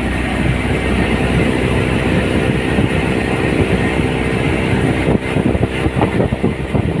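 Motorboat engine running at a steady pitch, with wind and water noise on the microphone. About five seconds in, the sound turns gusty and uneven.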